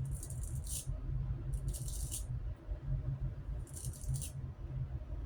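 A razor scraping through lather and stubble on the face in three short strokes, each about half a second long, the first at the start, the second near two seconds in, the third around four seconds in.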